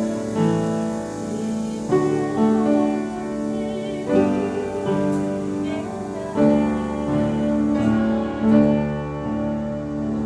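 Piano playing slow, sustained chords that change about once a second.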